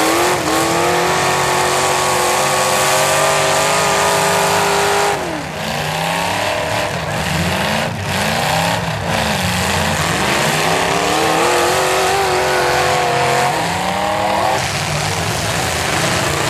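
Demolition derby cars' engines revving hard under full throttle as they push against each other. One engine climbs in pitch and holds high, drops about five seconds in, then gives several short revs before another long climb that falls away near the end.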